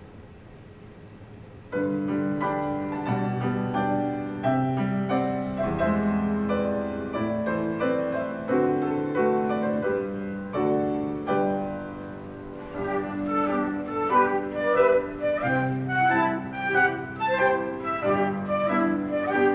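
A flute ensemble with piano starts playing about two seconds in, first with sustained chords. About two-thirds of the way through it moves into quicker, shorter notes.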